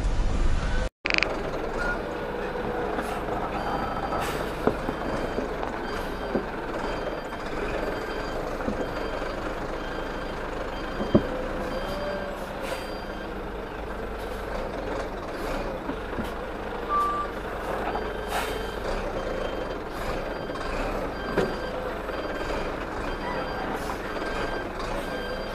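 Truck reversing alarm beeping steadily at an even pace over a truck's running engine, with a brief dropout in the sound about a second in.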